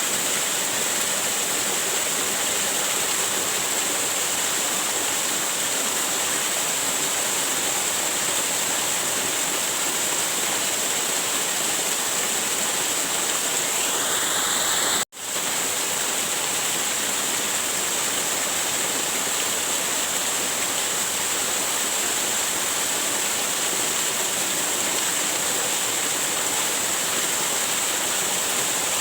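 Waterfall rushing steadily, an even roar of falling water that cuts out for an instant about halfway through and then carries on unchanged.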